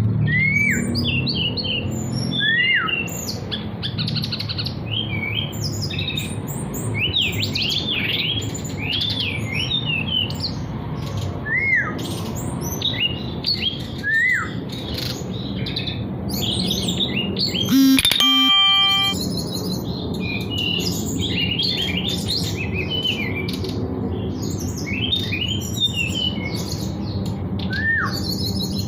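A songbird singing a busy, varied run of quick chirps and trills, with a swooping rise-and-fall note repeated every few seconds. A brief steady tone sounds about two-thirds of the way through, over a low background rumble.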